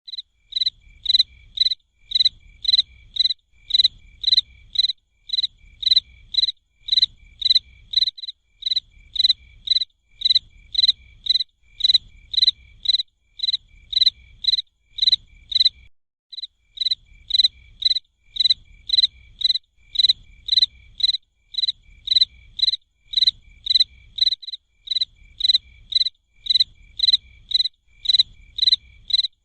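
High chirping call repeating steadily at about three chirps a second, in the manner of a calling cricket or tree frog, with a faint low rumble beneath.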